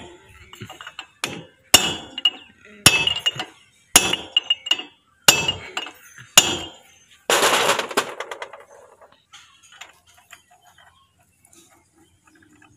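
Hammer striking steel parts on a JCB front wheel hub, driving a part home tight. About six ringing blows come roughly a second apart, then a longer, louder clatter about seven seconds in, after which only small metal clinks remain.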